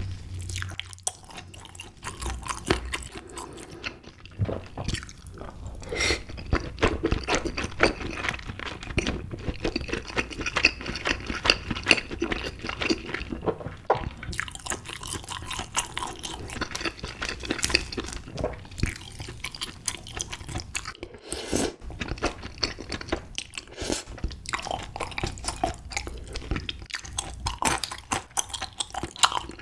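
Close-miked chewing of tteokbokki: wet, sticky mouth sounds with many small clicks and bits of crunch.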